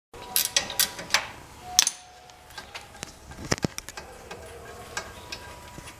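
Hand tools and metal parts clinking and knocking in a run of sharp strikes in the first two seconds, a few more around the middle, over a faint steady hum.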